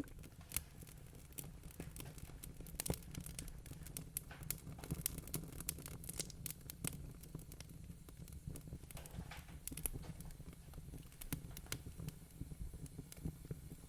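Wood-burning fire crackling: irregular sharp pops and snaps over a low, steady rumble.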